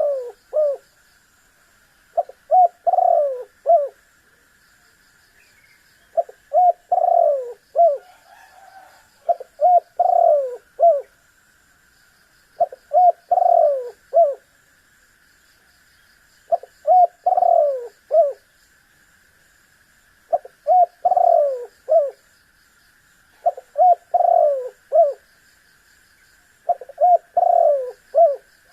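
Spotted dove (tekukur) cooing its song over and over, a phrase of a few short coos around one longer, falling coo about every three to four seconds. A steady high buzz runs underneath.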